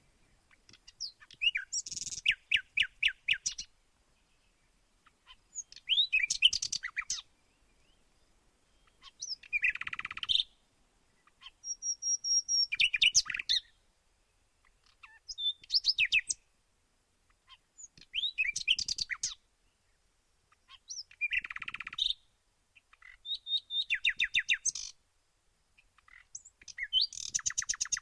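Songbird song in short phrases of rapid, repeated high notes, each phrase lasting one to two seconds and coming about every three seconds. There is near silence between the phrases.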